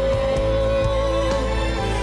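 Live band music: one long held lead note wavering slightly over a steady low bass, with a few light drum ticks and no singing.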